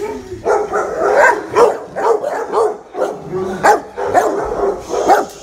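Shelter dogs barking, several at once, with loud barks at different pitches overlapping about twice a second.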